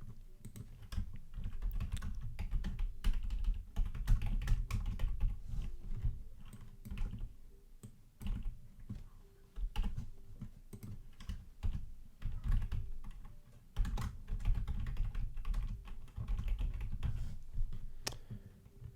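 Typing on a computer keyboard in irregular bursts of key clicks, with short pauses between runs, with dull low thuds of the keys bottoming out under the clicks.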